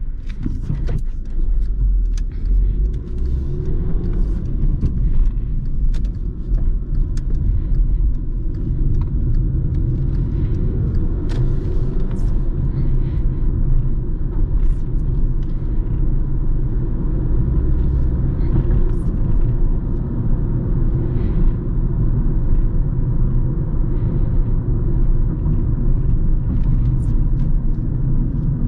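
Truck assembly-plant machinery running: a steady low rumble with scattered short clicks and knocks throughout.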